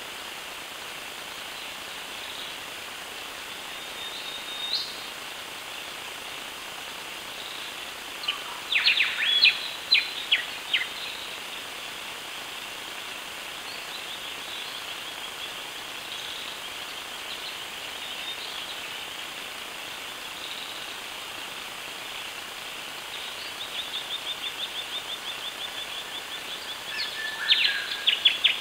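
Birds calling over a steady hiss: a burst of sharp, high calls about nine seconds in, a fast run of ticking notes later on, then another burst of sharp calls near the end.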